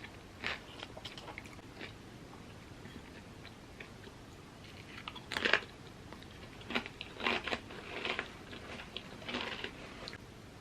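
Crunchy chips being bitten and chewed: a few crunches at first, a lull, then one loud crunching bite about halfway through followed by a run of crunchy chewing.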